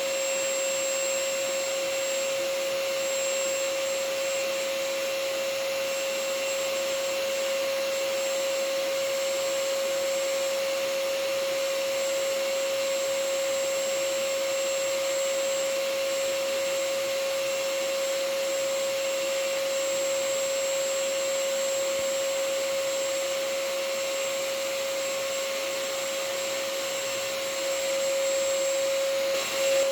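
Vacuum cleaner motor running steadily: an even rushing hiss with a constant mid-pitched whine on top, unchanging, getting slightly louder with a brief dip near the end.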